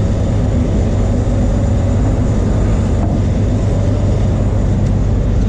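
Diesel engine of a straight-piped Peterbilt 379 tow truck with an ISX Cummins, running steadily with its sound mostly low.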